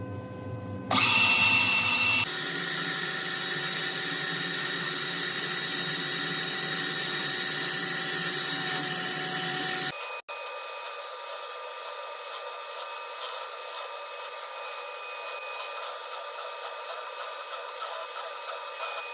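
A power tool's motor running steadily with a high whine, in a few segments spliced together with abrupt changes.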